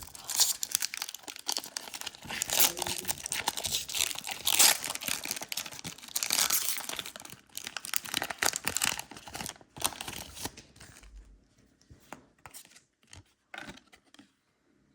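Crinkly trading-card packaging being handled, rustling and crinkling densely for about ten seconds, then only a few light handling clicks.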